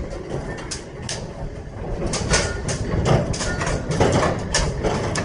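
Heavy machinery at work: a low engine rumble with irregular, sharp metallic clanks and knocks. These grow more frequent from about two seconds in, as a heavy steel machine is dragged.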